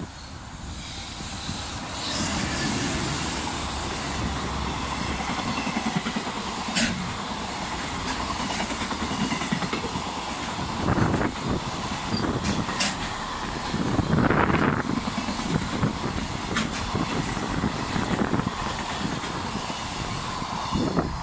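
Freight train passing close by: an EH500 electric locomotive goes by, then a long string of container flatcars rolls past with a steady rumble of wheels on rail, louder from about a second in. A few sharp clacks of wheels over rail joints stand out along the way.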